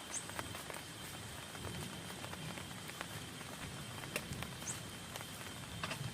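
Rain falling on a tent: a steady patter with scattered sharper taps of single drops.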